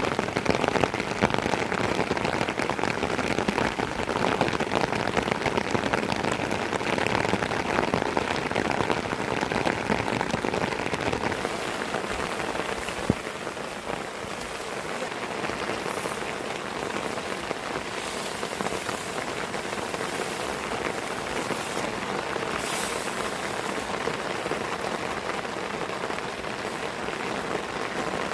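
Steady rain falling, a dense even patter that eases slightly about halfway through, with one sharp knock near the middle.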